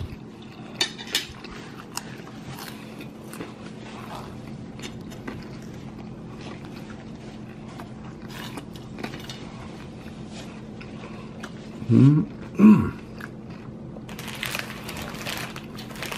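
Person biting and chewing curly fries, with scattered small clicks over a steady low hum. Two short voiced hums come about twelve seconds in, and a rustle about fourteen seconds in.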